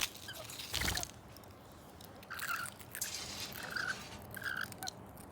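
Parrots pecking and crunching at food, with small irregular crunches. There is one short knock about a second in.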